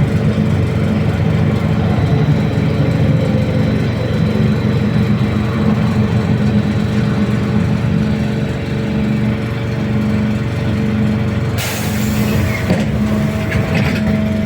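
BKM-321 trolleybus heard from inside, its electric traction drive giving a steady hum with fixed whining tones. About two-thirds of the way through comes a sharp hiss of air, about a second long, from the pneumatic brake system. After it a new steady tone sets in.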